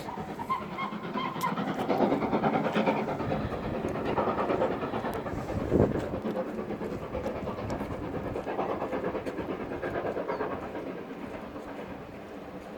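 Steam locomotive hauling its passenger train, exhaust chuffing over the running rumble and clatter of the carriages, easing off near the end.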